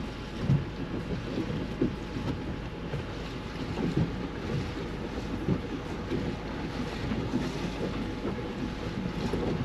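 Outboard motor of a Ranger Tug R-27 OB running steadily at low cruising speed, a low hum under wind on the microphone and water washing against the hull.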